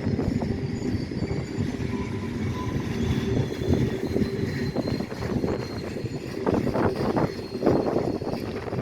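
Diesel-hauled trains rolling slowly on parallel tracks: a steady low rumble of locomotives and rail cars. Clusters of wheel clatter come in during the second half.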